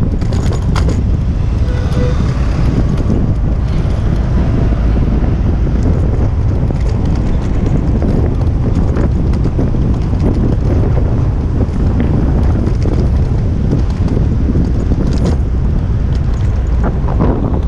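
Wind buffeting a GoPro's microphone while cycling, a steady low rumble over city street traffic.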